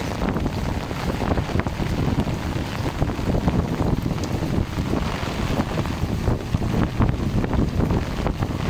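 Wind gusting hard against the microphone in a heavy rainstorm, a rough rumbling buffeting with the hiss and patter of rain over it.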